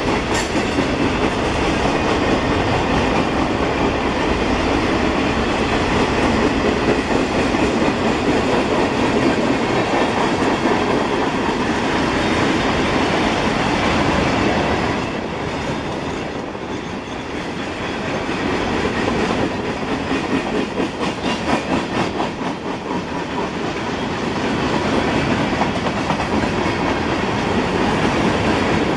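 Kansas City Southern freight train's cars rolling past with a steady rumble of wheels on rail. In the middle it eases slightly and a rhythmic clickety-clack of wheels over rail joints comes through.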